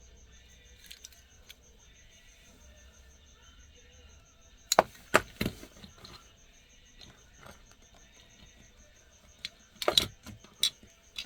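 Sharp little clicks and taps of a diecast model car being handled, its opening hood being pressed shut: a few clicks about five seconds in and another cluster near the end.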